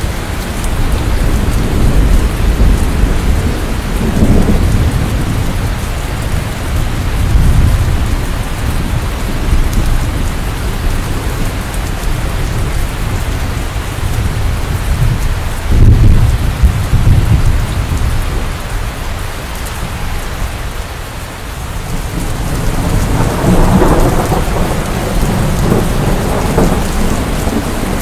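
Steady rain with rolling thunder: low rumbles swell and fade several times, the strongest about sixteen seconds in and another long one near the end.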